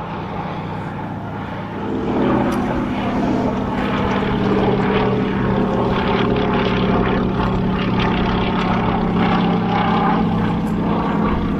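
Westland Lysander's radial piston engine and propeller droning in flight as it passes. The sound grows louder about two seconds in, then holds steady.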